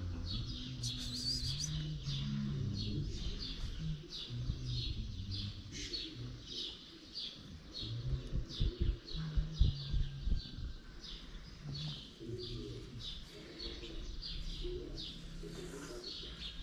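A small bird chirping over and over, about two chirps a second, with pigeons cooing low underneath. A few sharp knocks, the loudest sounds, come around the middle as a cat pushes its nose against the camera.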